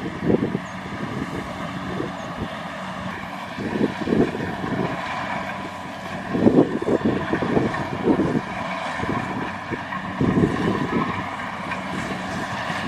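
Kubota DC-70 Plus combine harvester running steadily with a constant machine hum, while wind buffets the microphone in low rumbling gusts every second or two.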